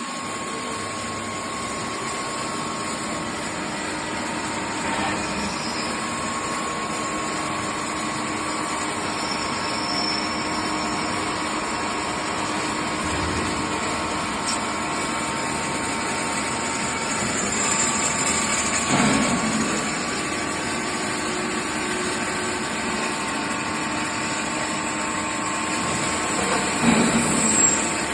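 Metalworking machinery in a dental-instrument workshop running steadily, with a constant high whine and a broad mechanical hum. It swells louder about two-thirds of the way through, and a few clanks come near the end.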